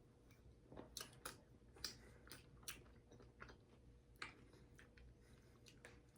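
Faint chewing of candy: scattered soft crunches and mouth clicks, with no steady sound between them.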